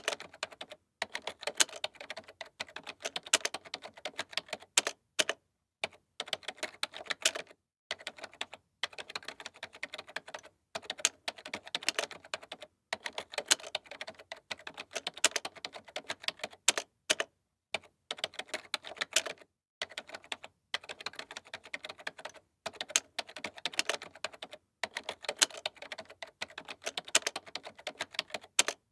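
Computer keyboard being typed on quickly, dense key clicks in runs of a second or two broken by brief pauses.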